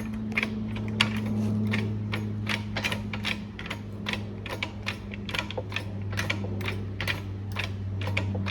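Harbor Freight 10-ton manual hydraulic log splitter being pumped by hand: a steady run of quick mechanical clicks from the pump and handle mechanism, about three or four a second, over a continuous low hum.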